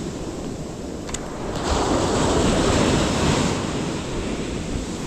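Surf breaking on a beach, one wave surging louder about two seconds in and then washing back, with wind buffeting the microphone.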